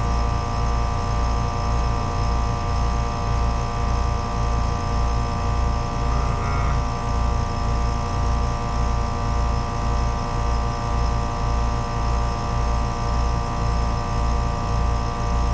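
Trane two-stage, 3-ton heat pump outdoor unit running steadily in second stage, compressor and fan giving a constant hum with a low pulsing beat of about two a second. The unit is suspected of pumping down in second stage because of a faulty EEV control board.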